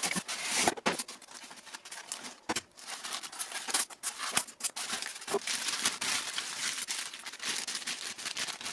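A cardboard box and its packing being opened and handled: crinkly rustling and scraping, with many small clicks and knocks.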